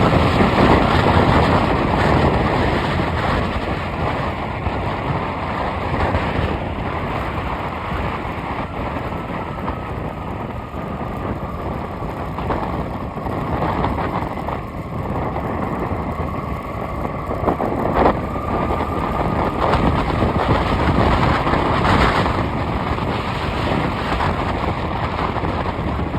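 A moving road vehicle: steady engine and road noise with a faint whine that slowly drifts in pitch, and a couple of brief knocks.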